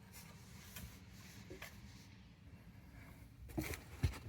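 Faint handling noise: light rustling and scattered clicks, with two sharper clicks or knocks near the end.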